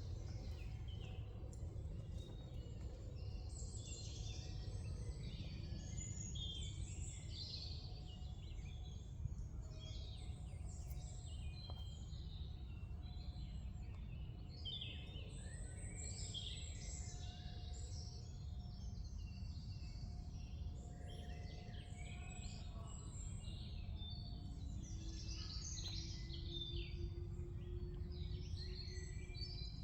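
Several woodland songbirds singing together, a dense, continuous run of short high chirps and trills over a steady low background rumble.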